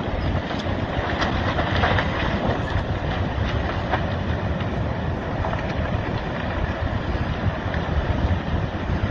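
Landslide going into the sea: a steady low rushing noise with wind on the microphone, and a few faint cracks in the first few seconds.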